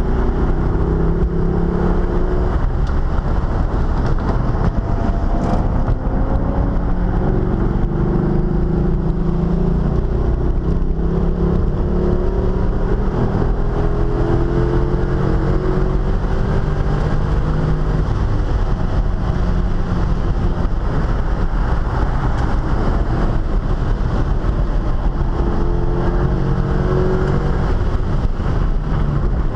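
Corvette's cammed V8 at full throttle on track, heard from inside the cabin: the engine note climbs in pitch under acceleration several times and drops back between pulls, over steady road and wind noise.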